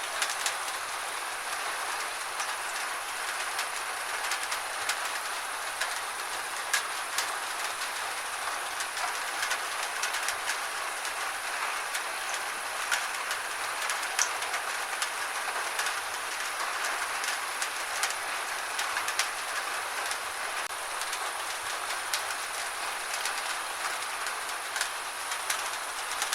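Gentle rain falling steadily: an even hiss with scattered sharp ticks of single drops striking.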